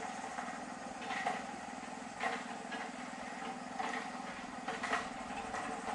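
A small motor or engine running steadily, with scattered short clicks and knocks.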